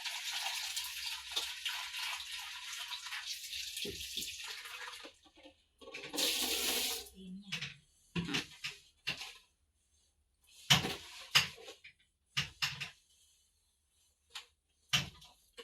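Water running from a tap into a basin for about five seconds, then cut off. After that come a brief rush of water and a series of short, separate splashes of water and wet laundry in the basin.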